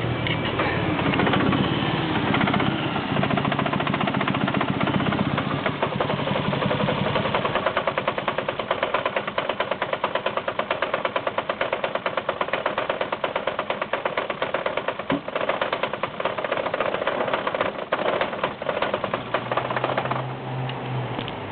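Cold VW 1.8T AWP turbocharged four-cylinder engine idling very roughly, running in a fast, uneven stumble. The rough cold idle comes from a failing MAF sensor that makes the engine run too rich.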